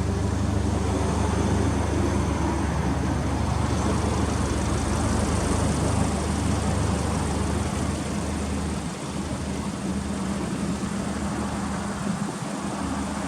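Subaru Impreza WRX STI (GRB) turbocharged flat-four engine idling steadily, a little quieter after about eight seconds.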